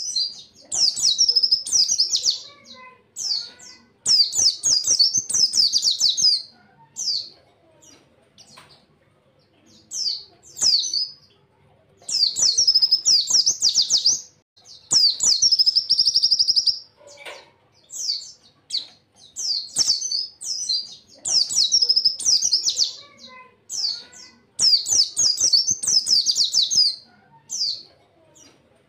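Pleci (white-eye) singing in rapid, high-pitched bursts of fast trilled warbling, each burst one to two seconds long with short pauses between them.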